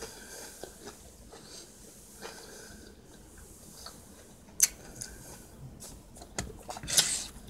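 Chewing with the mouth closed, soft mouth sounds, then a few sharp clicks and taps near the end as a plastic fork scrapes the takeout tray for the next bite.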